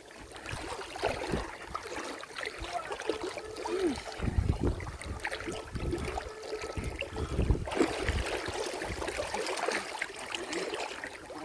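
Water sloshing and splashing, with many small splashes and heavier low surges about four and seven seconds in.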